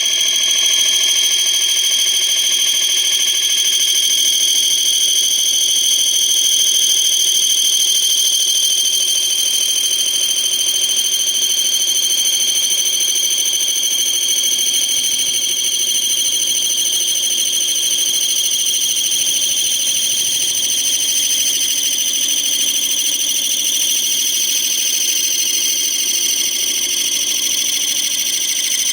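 Metal lathe running while cutting a new retaining-ring groove in a mower deck spindle housing, with a loud, steady high-pitched whine.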